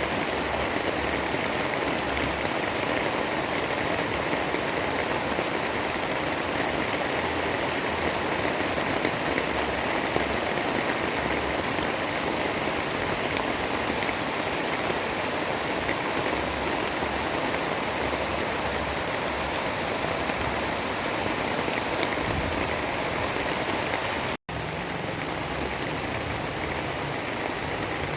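Steady heavy rain, a dense even hiss. About 24 seconds in it cuts out for a split second, then resumes slightly quieter, as at a splice in a looped recording.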